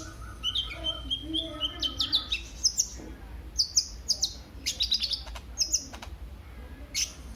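Male kolibri ninja sunbird singing in quick runs of sharp, high chirps and short trills, with brief pauses between phrases.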